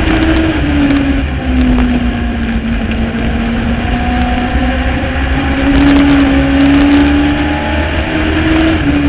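Motorcycle-engined Legends race car running at racing speed. The engine note drops about a second in as the driver lifts, climbs again around halfway, and drops once more near the end, over a steady low rumble.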